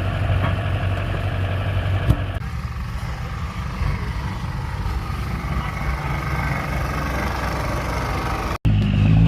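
Diesel pickup truck engine idling steadily, with a single sharp click about two seconds in. The sound cuts out abruptly for a moment near the end.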